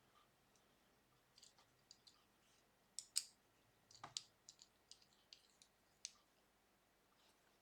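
Small sharp clicks and taps of cigar pen kit parts being handled and fitted together as a Parker refill goes into the pen. Two louder clicks come about three seconds in, then a run of lighter ones.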